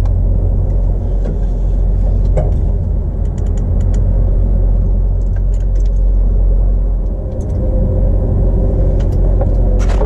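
Engine running with a loud, steady low rumble, cut off abruptly at the end.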